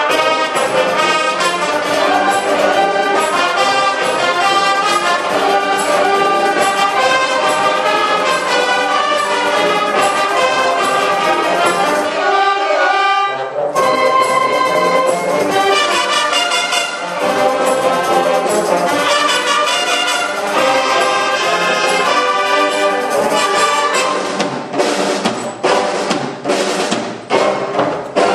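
Brass-led school marching band playing in concert, trumpets and trombones to the fore. The music drops out briefly about halfway, then comes back, and ends the stretch with short, separate accented chords.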